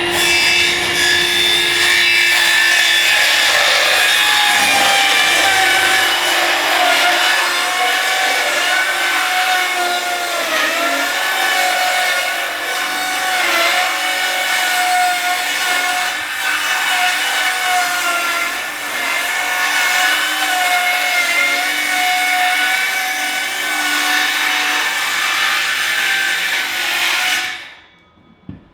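Electric power saw running and cutting through wood, its motor whine sagging briefly in pitch a few times under load. It stops shortly before the end.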